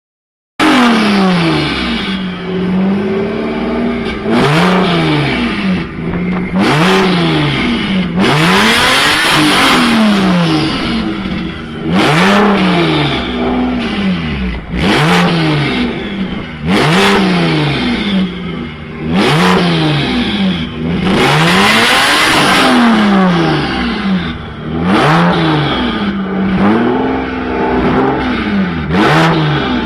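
Supercar engines revved hard about a dozen times, the note climbing and dropping back roughly every two seconds, with a loud rasping rush of exhaust noise at the top of each rev.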